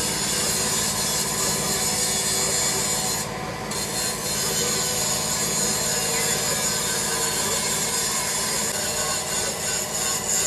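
Steady rasping, scraping noise of metalworking machinery, with a constant low hum underneath.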